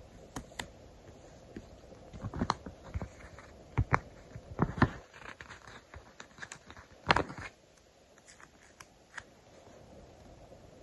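Stickers and paper being handled: scattered crinkles, clicks and short scrapes as stickers are peeled from their backing and pressed down. The sounds are busiest from about two to five seconds in, with the loudest one about seven seconds in.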